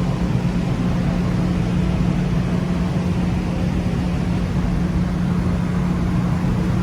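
Car ferry's diesel engines running underway: a steady low drone with a constant hum, mixed with the rush of wind and water.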